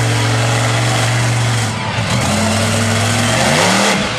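Monster truck engine running at a steady pitch, then revving up about three and a half seconds in, with the pitch rising sharply.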